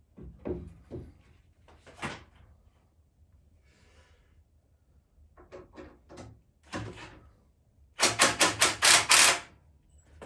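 Workshop knocking and clatter of wood and tools being handled: scattered knocks and clunks, then a quick run of about eight sharp, loud strikes near the end.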